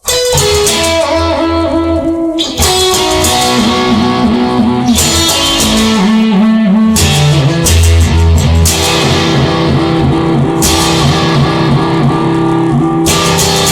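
Instrumental rock intro: electric guitar with bass and drums, starting abruptly and with no singing.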